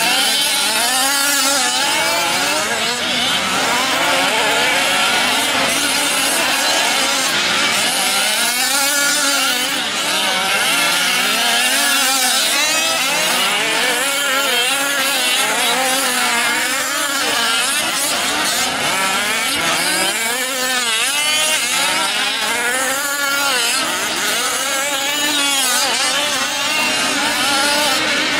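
Several 1/5-scale RC trucks' small two-stroke gasoline engines racing together, their overlapping buzzing pitches rising and falling constantly as they rev.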